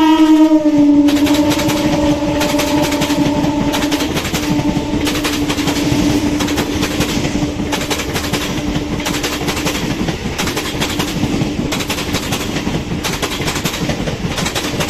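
Electric multiple unit (EMU) local train running through the station at speed. Its horn tails off with a drop in pitch as the cab passes in the first second. Then the coaches' wheels clatter over the rail joints in repeated groups of clicks, over a steady hum.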